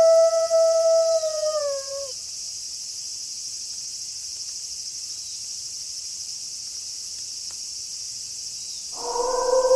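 Wolf howling: one long held note that sags and falls off about two seconds in. A steady high hiss of night insects carries on beneath it. A second, lower howl begins about a second before the end.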